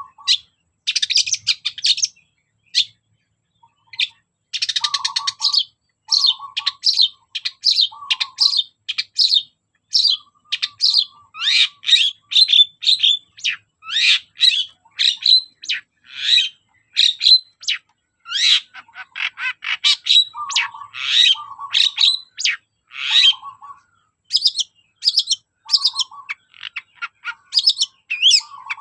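Long-tailed shrike (cendet) singing a fast, busy song of short, harsh chattering notes, mixed with occasional lower buzzy notes. Brief pauses come near the start and again about three-quarters of the way through.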